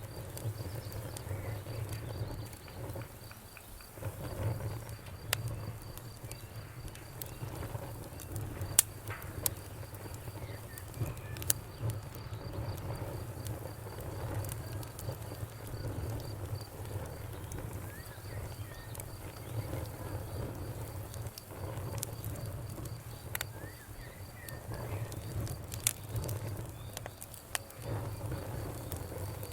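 Wood fire crackling: a steady low rumble of burning with scattered sharp pops and snaps, one louder crack about nine seconds in. A faint, high, evenly pulsed chirping runs behind it.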